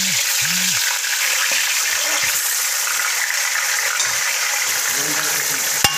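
Raw chicken pieces sizzling steadily in hot oil in a karahi, with a sharp click near the end.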